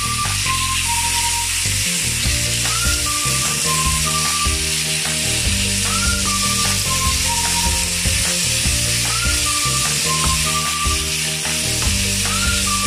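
Marinated chicken strips sizzling steadily as they fry in a pan, with background music playing over it: a short melody and bass line that repeat about every three seconds.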